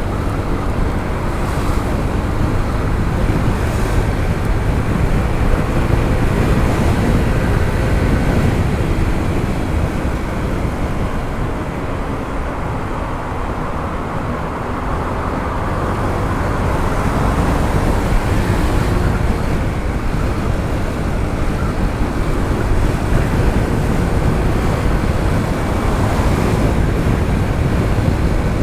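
Honda ADV 160 scooter being ridden, its single-cylinder engine and CVT running under steady wind rush on the helmet microphone. The noise eases a little around the middle, then picks up again.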